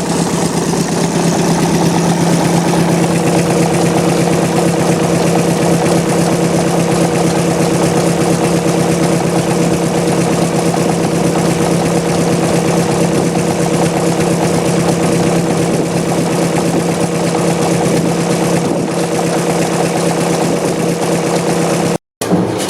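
Two-stroke stationary diesel engine of Danish build running steadily, a fast even pulsing with a strong steady hum. The sound cuts off abruptly near the end.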